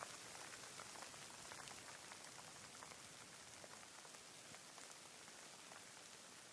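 Faint, steady rain: an even hiss with scattered single drops heard as distinct, irregular ticks.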